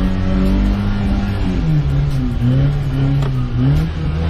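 Maruti Suzuki Gypsy's petrol engine heard from inside the cabin while driving through mud. The engine holds steady revs for about a second and a half, then its pitch drops and rises again and again as the throttle is worked.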